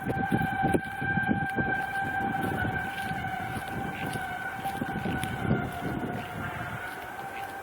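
A loud, steady droning tone of unknown origin heard from a distance, held at one pitch with a slight wobble near the end. Irregular low rumbling from the microphone runs beneath it.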